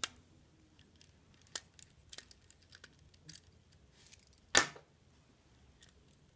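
Sparse small clicks and taps from taking the old coupler off an HO scale model tank car, with one much louder sharp clack about four and a half seconds in.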